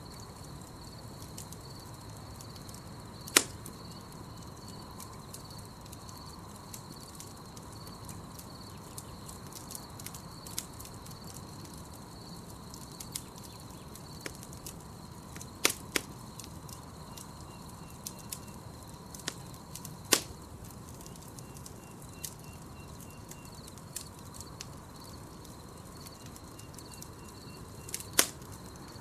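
Campfire burning with a low, steady crackle and a handful of sharp, loud pops from the burning wood, over a steady high-pitched trill of night insects.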